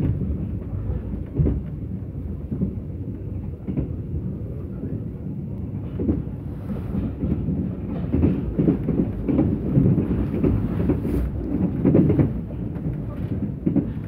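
Mugunghwa-ho passenger train running at speed, heard from inside the carriage: a steady low rumble with the wheels knocking irregularly over the rails, growing louder and busier about halfway through.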